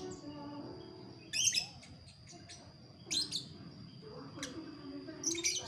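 A bird chirping in three short bursts of quick high notes, roughly two seconds apart, over a thin steady high-pitched tone.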